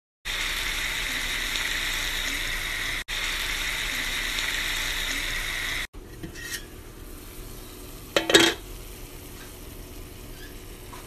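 Chicken pieces sizzling in hot oil in a skillet, a loud, steady hiss. About six seconds in it drops to a quieter sizzle, and the metal pan lid clanks once sharply about eight seconds in.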